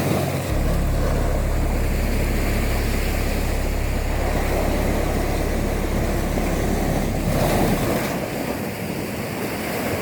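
Sea waves washing against the shore, with a steady low rumble of wind on the microphone that drops away near the end.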